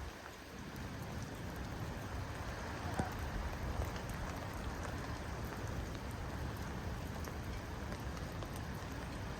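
Steady rain falling, an even hiss with scattered drip taps and one sharper tap about three seconds in.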